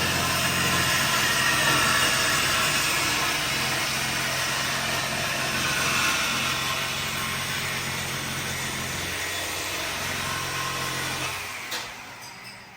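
A machine running steadily, a low hum with a loud hiss over it, dying away near the end.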